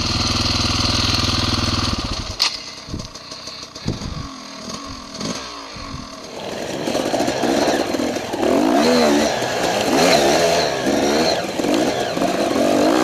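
Dirt bike engine running steadily, then cutting off about two and a half seconds in. From about halfway on, motorcycle engines rev up and down repeatedly.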